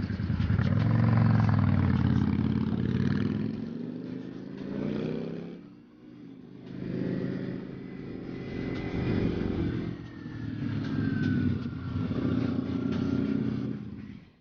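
Motorcycle engine running and revving, its pitch rising and falling in several waves, with a brief lull about six seconds in.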